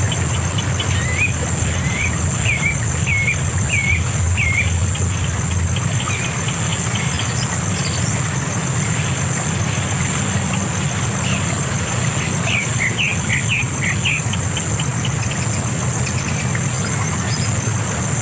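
A bird calling in a quick run of short, hooked chirps about a second in, then another cluster of calls around twelve seconds in. Under the calls there is a steady high-pitched whine and a low rumble.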